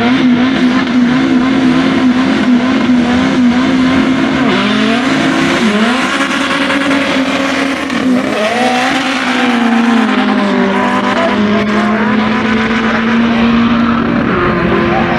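Turbocharged Toyota RunX RSi with a 2ZZ-GE four-cylinder engine running hard down a drag strip. Its engine note holds a steady high pitch at first, then dips and climbs again several times midway, with some tyre squeal. The commentator takes the run for a struggle with traction in all gears.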